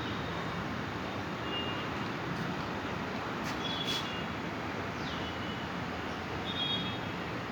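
Mumbai Metro train running, a steady rushing noise, with a few short high-pitched tones and squeaks over it.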